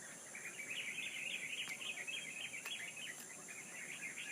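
Small birds chirping in a rapid, chattering run that grows louder about half a second in, over a steady high-pitched insect drone.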